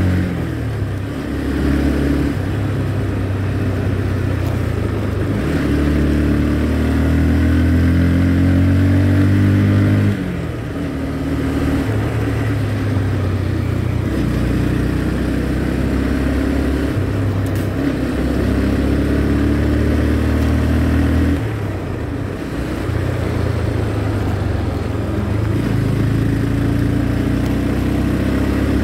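Motorcycle engine running while riding, its pitch rising and shifting in steps with changes of speed, with brief dips in loudness about a third and two-thirds of the way through.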